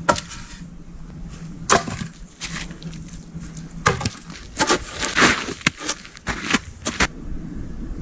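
Irregular sharp cracks and knocks of wood, about a dozen, some clustered with short splintery tails.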